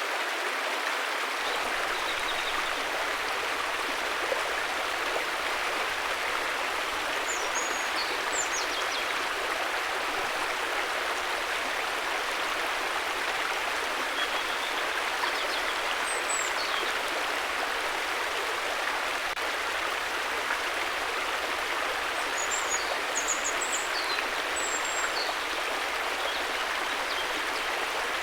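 River water rushing steadily, with a few faint high bird chirps now and then.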